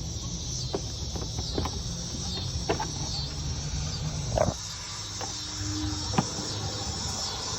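Scattered light clicks and knocks of the new engine air filter being handled and set into the plastic air box, the loudest about four and a half seconds in. A steady high chirring and a low rumble run underneath.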